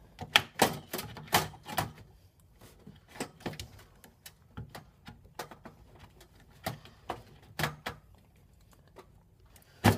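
Short, sharp clicks and knocks of computer parts being handled while a graphics card is seated in a PC, a quick cluster in the first two seconds, then scattered lighter ones with a couple of louder knocks later.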